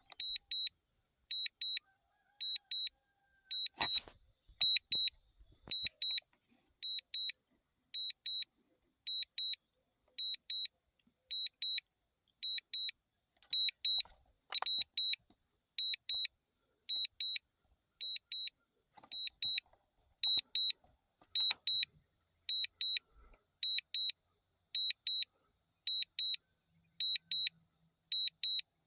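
DJI drone controller's critical low-battery alarm: short, high double beeps repeating about once a second, warning that the drone's battery is nearly empty.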